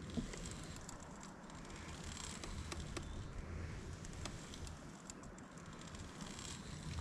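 Faint water lapping and splashing around a kayak on open water, with a few light ticks.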